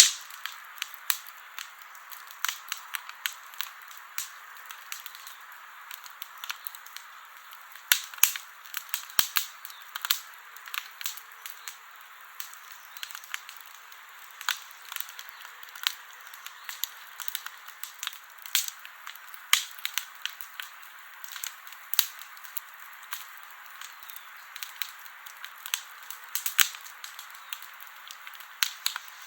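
Wood campfire burning, crackling with irregular sharp pops, some louder than others, over a steady hiss.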